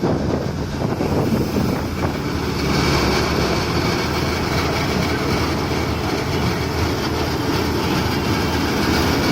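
John Deere 5050D tractor's three-cylinder diesel running steadily under load, driving a thresher through its PTO, with the thresher's mechanical clatter and hiss. A brighter hiss joins about two and a half seconds in.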